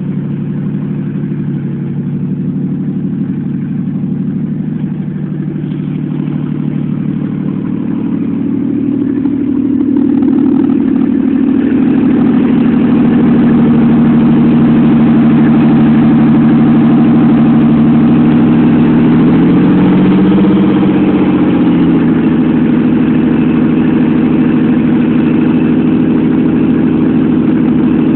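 Supercharged 3800 V6 engine in a 1984 Oldsmobile Cutlass, running steadily. It grows louder about ten seconds in. About twenty seconds in its pitch briefly rises and falls, as from a light blip of the throttle.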